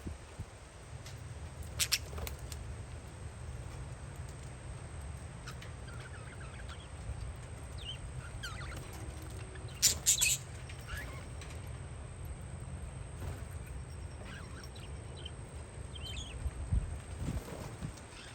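Parakeets chirping in short scattered calls over a steady low rumble of wind on the microphone, with two brief loud noises, one about two seconds in and one near the middle.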